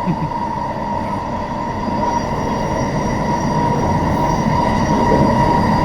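Train running along the track: a steady rumble with a constant high whine, slowly getting louder.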